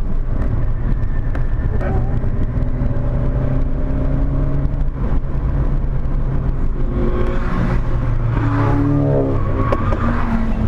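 Volkswagen Corrado's 1.8-litre 16-valve four-cylinder engine running hard on a lap, heard from inside the car, its pitch shifting up and down several times and most of all in the last few seconds.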